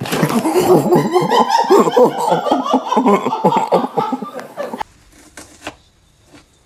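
Hearty human laughter in quick repeated bursts for nearly five seconds, cutting off abruptly, followed by a few faint clicks.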